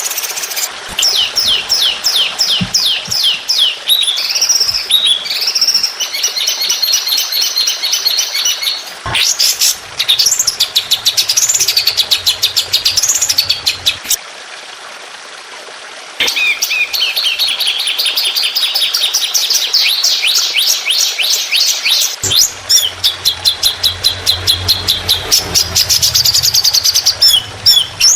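Songbird song of the kind used as a tutor recording for training competition birds: fast runs of sharp repeated notes and rolling trills, with a brief pause about halfway through.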